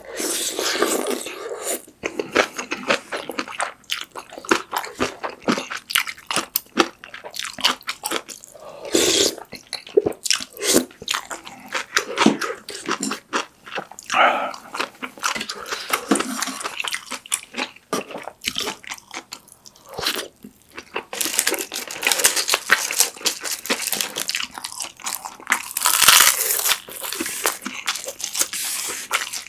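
Close-miked eating of pork kimchi stew with ramen noodles: wet chewing with crunchy bites and mouth smacks, in repeated bursts.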